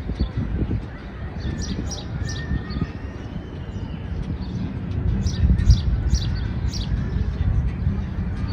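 Small birds chirping again and again in short high notes over a steady low rumble of park background noise.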